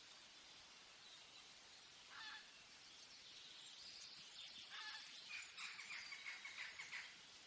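Faint forest ambience: a steady hiss with birds calling, two short calls and then a quick run of repeated notes from about five seconds in.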